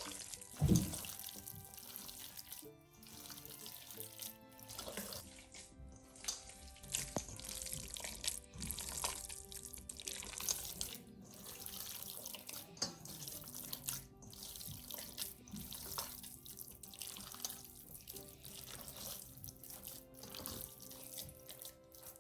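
Water from a kitchen tap splashing into a sink, coming and going unevenly with small clatters, over background music with steady held notes.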